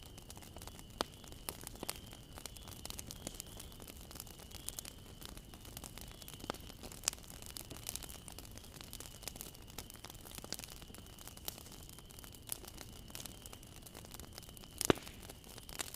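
Bonfire of burning wood crackling: irregular sharp pops and snaps over a low steady rustle of flames, with one louder pop near the end.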